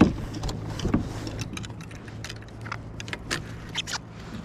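Small metal parts of fishing tackle clicking and clinking as they are handled, in irregular light ticks several times a second over a steady low hum.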